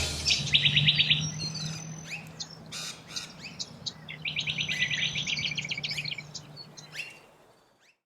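Birds calling, with two fast trills of evenly repeated high notes, the first about half a second in and the second from about four to six seconds, among scattered chirps. A steady low hum runs underneath, and the sound fades out near the end.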